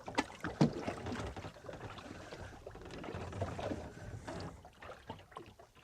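Water slapping and sloshing against a small boat's hull, with two sharp knocks near the start.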